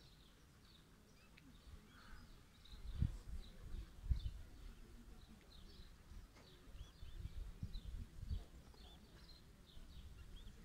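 Many faint, high, short bird chirps, with a few low thumps of wind or handling on the microphone.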